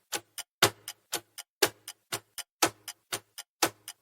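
Clock-tick countdown timer sound effect ticking steadily, a louder tick about twice a second with a softer click between each.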